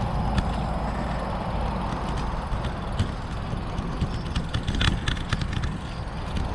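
Riding a Brompton folding bicycle: a steady low rumble of wind and road noise, with scattered light clicks and rattles and a short run of them about five seconds in.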